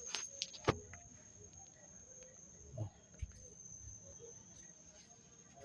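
Dog snoring faintly, with one louder snore about three seconds in. A steady high-pitched trill runs underneath throughout.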